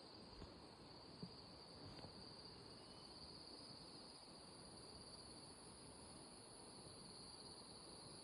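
Faint, steady, high-pitched chorus of insects such as crickets, with a few faint ticks in the first two seconds.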